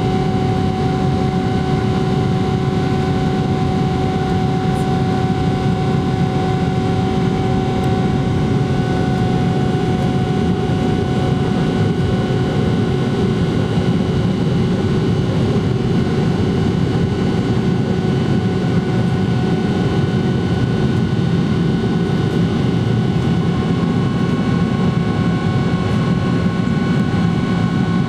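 Steady drone of a Boeing 777-300ER's GE90-115B turbofan engines at power: a dense low rumble with several fixed whining tones on top, holding level without rising or falling.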